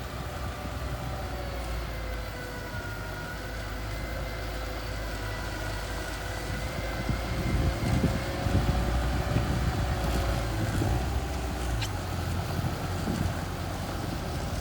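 Mini bulldozer's engine running steadily, a low rumble with a thin whine over it, getting somewhat louder about halfway through.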